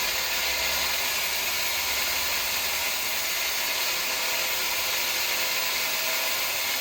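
Electric arc welding on steel: a steady, even hiss with no breaks.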